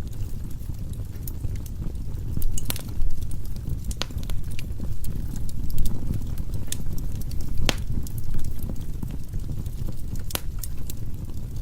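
Logs burning in a wood fireplace: the steady low sound of the flames with irregular sharp crackles and pops, a handful of them markedly louder.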